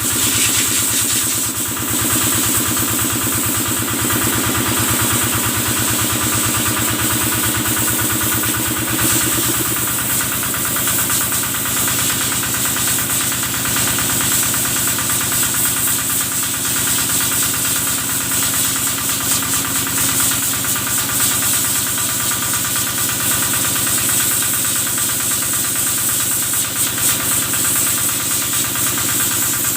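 Kubota engine running steadily, driving the water pump used to wash the cattle, with a fast, even chugging beat. Its note drops slightly about nine seconds in.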